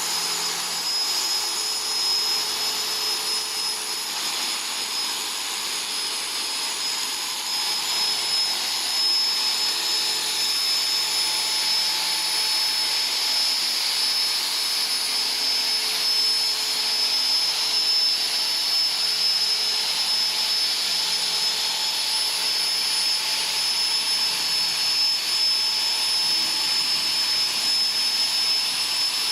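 Small electric power tool motor running steadily, with a constant high-pitched whine over a hiss.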